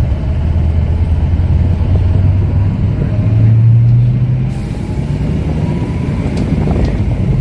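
Bus engine running, heard from inside the cabin: a low drone whose pitch climbs as the bus accelerates, then drops back about halfway through.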